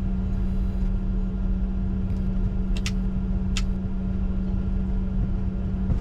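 Cockpit noise of a Bombardier Challenger 605 taxiing: a steady rumble with a constant low hum from the idling jet engines and aircraft systems, and two brief high chirps about three seconds in.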